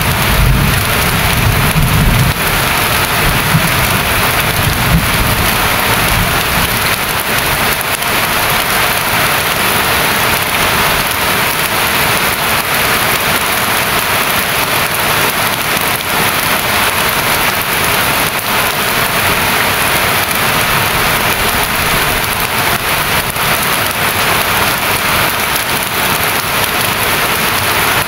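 Steady heavy rain falling, with a low rumble during the first few seconds.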